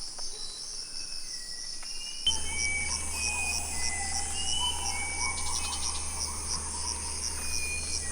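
Rainforest insect chorus: a steady high trill over an evenly pulsing chirp, with short whistled bird calls. About two seconds in, the sound changes abruptly: a low hum comes in and more bird whistles and a wavering call join.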